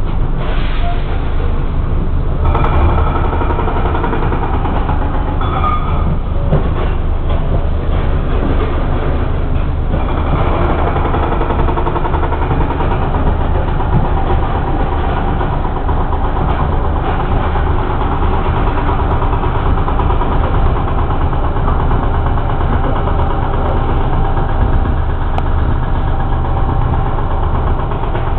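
Bus engine running steadily with a low drone, heard from inside the bus.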